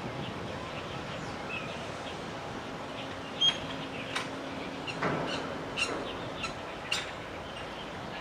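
Small birds chirping: scattered short calls, the loudest about three and a half seconds in, with a cluster more a few seconds later, over a steady background hiss.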